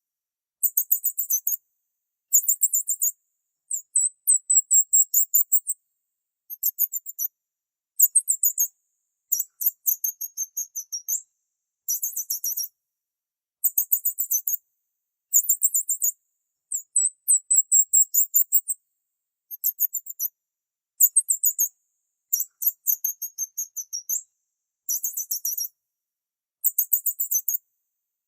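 Small bird chirping in rapid, very high-pitched trills, in bursts of about one to two seconds with short silent gaps between them, repeated again and again.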